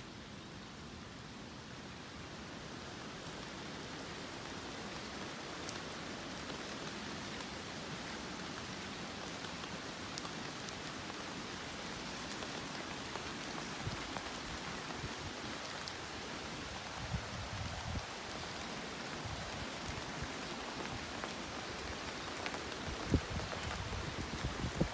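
Steady rainfall, an even hiss that grows a little louder over the first few seconds, with scattered drip ticks and a few soft thuds.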